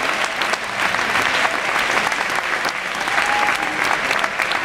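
Audience applauding: steady, dense clapping after a prize winner is announced.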